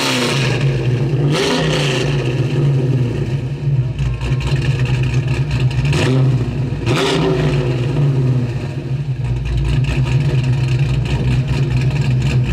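Big-block Buick V8 (464 cubic inches, in a 1969 Buick GS 400) idling with a deep, steady note. The throttle is blipped a few times, about a second and a half in and around six and seven seconds in, and each time the revs rise and then fall back to idle.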